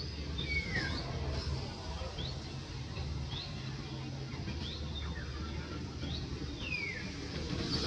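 Small birds chirping: short high chirps about once a second, some falling and some rising in pitch, over a steady low rumble.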